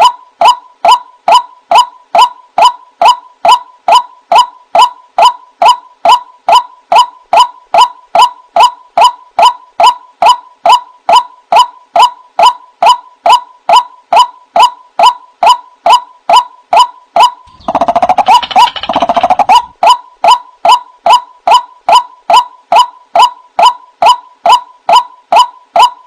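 White-breasted waterhen's 'kru-ak' call repeated very evenly, about twice a second, the monotonous call trappers use as a lure. Around two-thirds of the way through there is a brief rustling, scuffling noise under the calls for about two seconds.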